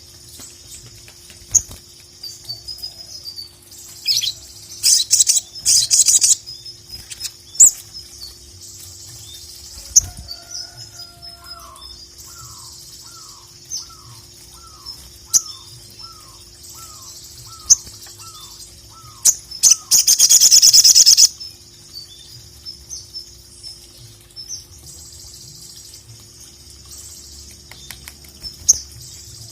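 Brown-throated sunbird (sogon) singing: a continuous stream of high, rapid chirps and twitters, with loud fast trills about five seconds in and again around twenty seconds. Between about ten and nineteen seconds a lower series of about a dozen short falling whistles repeats at an even pace.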